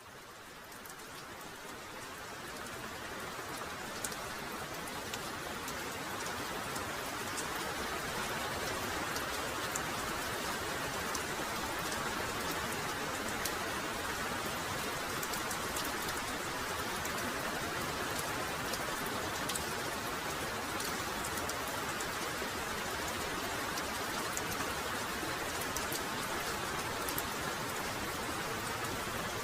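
Heavy rain falling steadily, fading in over the first several seconds, with individual drops ticking close by.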